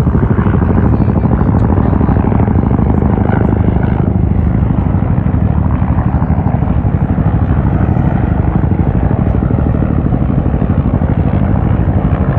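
Helicopter running loudly, its rotor blades beating in a rapid, steady pulse.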